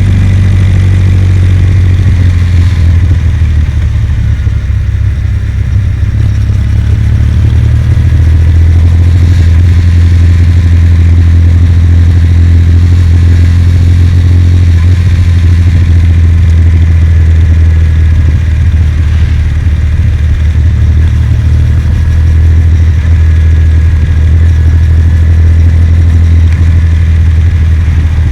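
Kawasaki W800 motorcycle's air-cooled parallel-twin engine running steadily under way. Its note settles a little lower and louder about eight seconds in.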